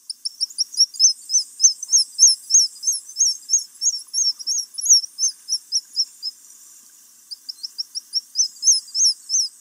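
Bird calls: a rapid series of short, high, thin chirps, about three a second. They pause briefly about six seconds in, then start again.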